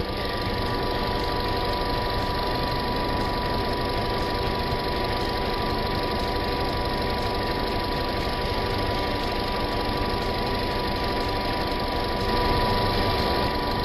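Peugeot 307's 1.6-litre petrol four-cylinder engine idling steadily, slightly louder near the end. It is warming up just after a thermostat replacement and coolant bleed, with the coolant bottle cap off to let air bubbles escape.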